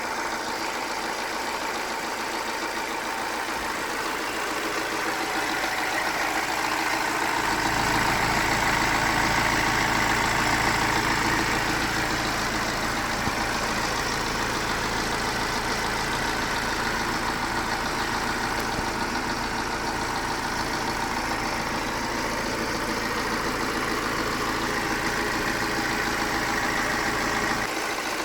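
Car engine idling with a tapping, ticking noise typical of tappet noise in the valvetrain. It grows louder for a few seconds partway through, then settles.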